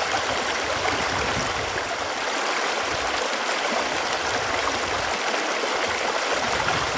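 Running water: a steady, even rush with light gurgling.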